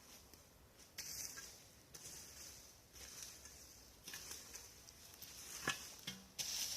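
Rustling of leaf litter and brush in repeated swishes, roughly one a second, with a single sharp click or snap about five and a half seconds in.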